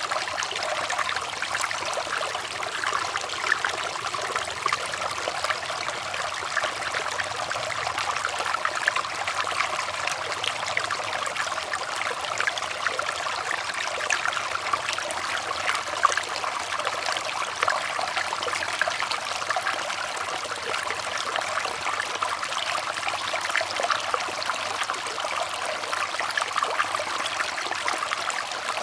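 Running water trickling and splashing steadily, a constant stream of small splashes without pause.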